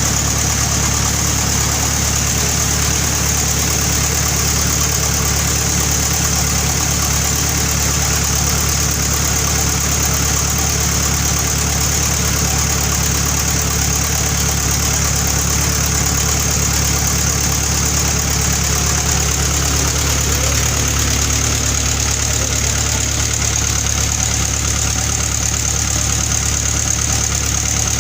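Sawmill machinery running steadily: a deep engine hum with a steady high whine from the saw. About twenty seconds in, the engine note dips slightly.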